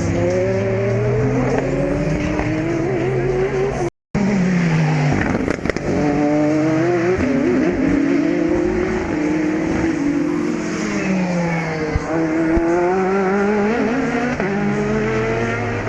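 Several race cars passing close by at speed, their engines overlapping and sweeping down and up in pitch as they go past and shift gears. The sound cuts out for a moment about four seconds in.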